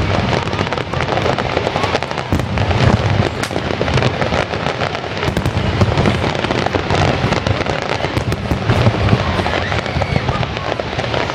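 Fireworks display: a dense, unbroken barrage of booming shell bursts and crackling.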